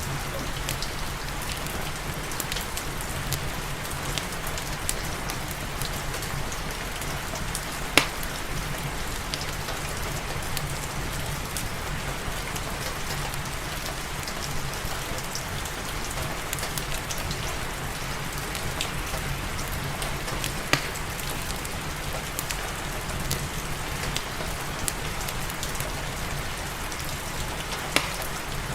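Steady rain falling, with the crackle of a wood fire in a fireplace: faint ticks throughout and three sharp pops spread across the stretch.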